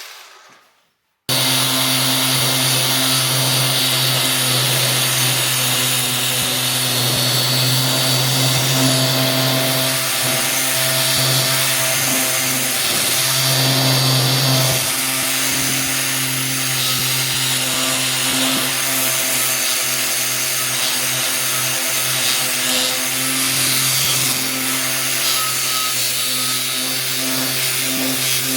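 An electric power tool running steadily with a motor hum under a dense grinding hiss, cutting in abruptly about a second in after a brief silence. It is working the rust off an old iron horseshoe.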